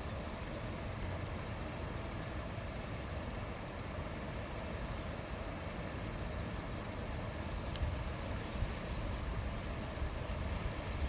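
A shallow river babbling steadily over its bed: an even, continuous rush of flowing water.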